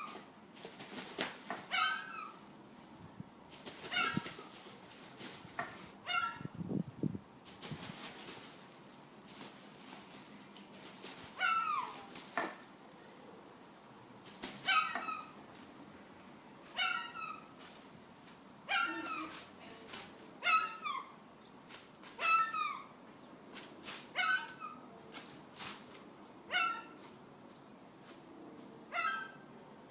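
Birds calling over and over, each call a short cry that slides down in pitch, repeating every second or two, with some clicks and knocks in the first several seconds.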